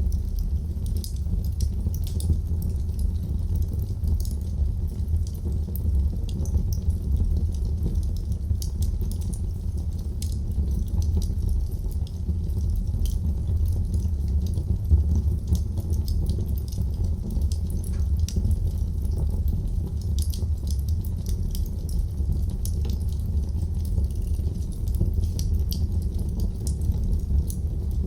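Wood fire burning in a fireplace, crackling with many small sharp pops over a steady low rumble of the flames.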